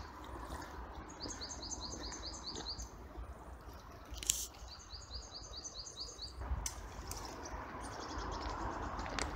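A small songbird singing a quick run of about eight identical high notes, twice, with a brief sharp click between the two phrases, over a faint steady rumble.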